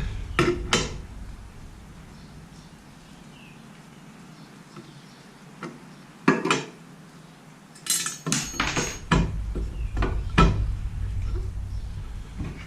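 Scattered metallic clinks and knocks of hand tools and metal parts on a Wen 8-inch jointer being adjusted: two near the start, one about six seconds in, then a busier cluster with a low rumble from about eight seconds.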